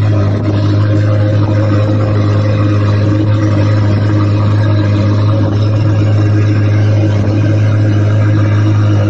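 A car engine running steadily close by, a loud, even low hum that neither rises nor falls.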